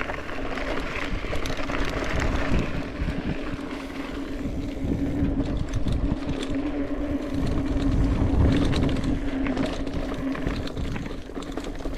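Mountain bike being ridden: rumbling rolling and wind noise with a steady droning hum, strongest in the middle.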